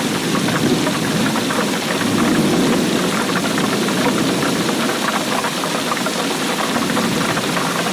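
Heavy rain falling steadily, a dense patter over a low drumming rumble.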